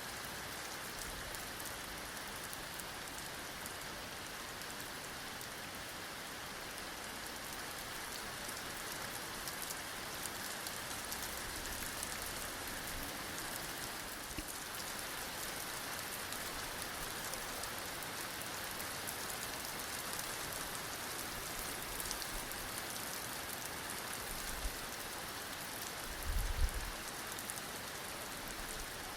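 Heavy rain falling steadily, an even dense hiss of drops striking surfaces. A brief low thump comes near the end.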